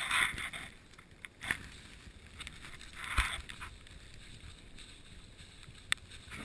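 Mountain bike ridden over a wet, rocky trail: tyre and frame noise with several rough clattering knocks, one with a low thud about three seconds in, and a sharp click near the end.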